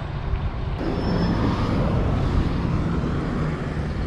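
Steady rumble of wind and road noise while riding a bicycle along a highway, heaviest in the low end, with the hiss growing brighter a little under a second in.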